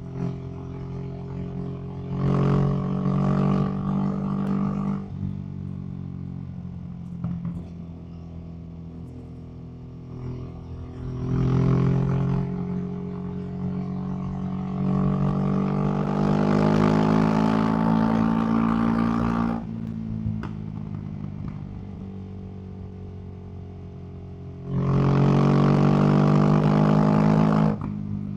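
Ducati SuperSport S's 937 cc L-twin running through an aftermarket Termignoni exhaust while riding: a steady cruise broken four times by the throttle being opened, when the engine gets louder and its pitch climbs slowly. The longest pull comes past the middle, and each one ends abruptly as the throttle is rolled off.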